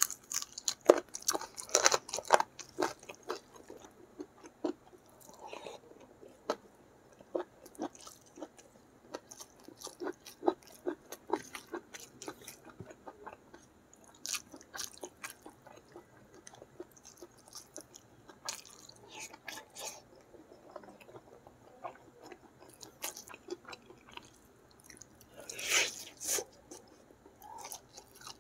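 Close-miked chewing and wet mouth smacks of a person eating rice with sambal petai (stink beans) and chicken curry by hand: irregular clicks, busiest in the first few seconds, with one louder hissing burst near the end.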